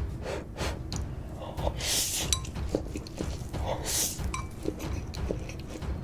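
Close-miked sharp breaths or sniffs and small mouth noises from someone at a meal, with two light clinks of a utensil against a dish.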